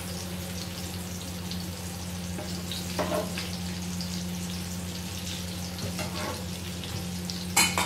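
Eggplant omelette frying in hot oil in a pan: a steady sizzle and crackle, with a few light clicks and one sharper click near the end, over a low steady hum.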